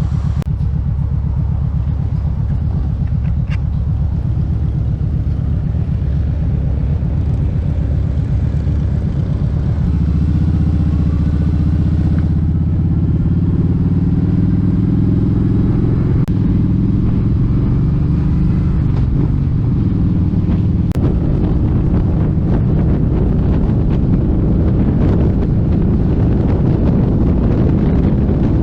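Kawasaki Vulcan 1700 Vaquero's V-twin engine running while riding, the note rising about ten seconds in as the bike speeds up.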